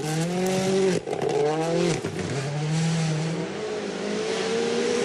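Rally car engine under hard acceleration, its pitch climbing and breaking sharply at two quick gear shifts about one and two seconds in, then running steadier at high revs.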